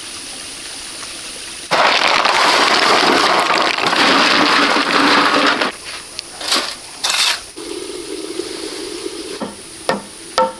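A loud rushing noise for about four seconds, then a few sharp knocks.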